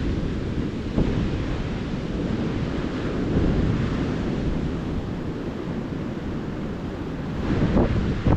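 Ocean surf washing onto a beach, a continuous rush of waves that swells louder a few seconds in and again near the end, with wind buffeting the microphone.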